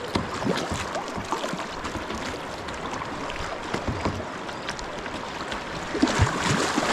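River current rushing and gurgling around kayaks, with small splashes of water against the hulls and paddles, getting louder about six seconds in.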